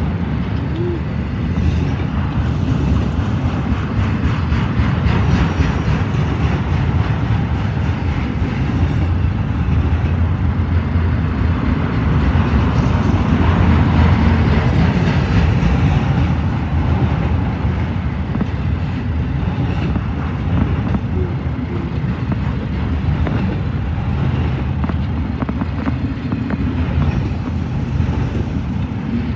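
Freight train of autorack cars rolling past: a steady rumble of steel wheels on the rails, with a fine, rapid clatter running through it.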